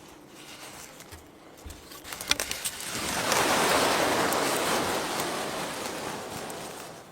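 A rushing noise that swells up about three seconds in and fades away over the next few seconds, after a few sharp clicks.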